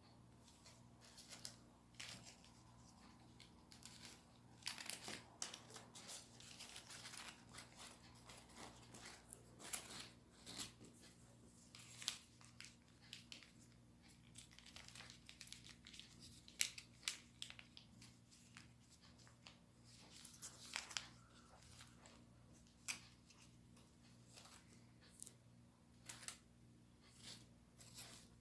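Sheet of origami paper being folded and creased by hand: quiet, irregular crinkles, rustles and small taps, denser in the middle stretch. A faint steady hum runs underneath.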